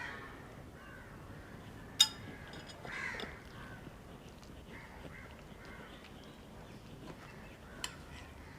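Crows cawing faintly in the background, once at the start and again about three seconds in. A sharp click about two seconds in is the loudest sound, and a smaller click comes near the end.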